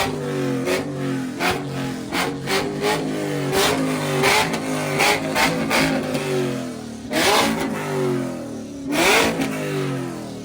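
Car engine being revved in quick repeated blips, its pitch climbing and falling, with many sharp cracks between them and two bigger rising revs near the end.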